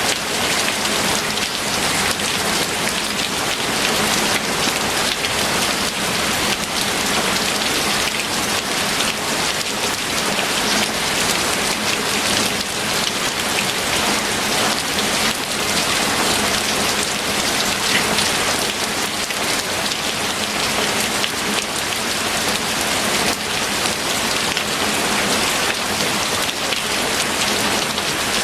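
Steady heavy rain, an even hiss with many small fine drop ticks.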